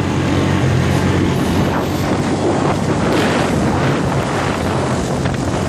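Four-wheeler (ATV) engine running steadily with a low hum, with wind rushing over the microphone.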